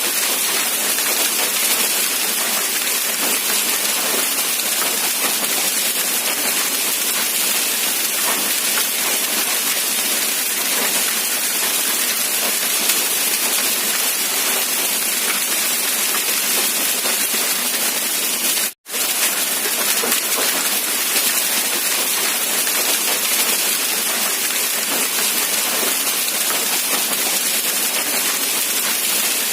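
Steady rain falling, an even hiss of countless drops. About two-thirds of the way through, the sound cuts out for an instant and then resumes.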